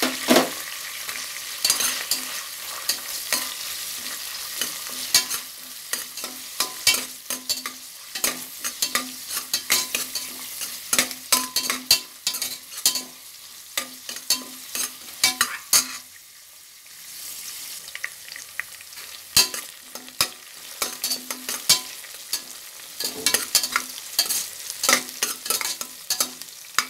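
Sliced onions frying in hot oil in a pressure cooker, sizzling steadily, while a slotted steel spoon stirs them with frequent scrapes and clinks against the pot. The stirring lets up briefly about two-thirds of the way through.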